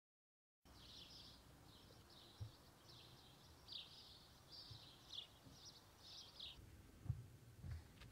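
Faint outdoor ambience with small birds chirping in short high calls, which stop about six and a half seconds in, and a few soft low bumps. The first half-second is silent.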